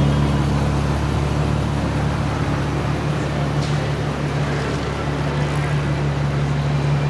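A car engine idling steadily, a constant low hum with no revving.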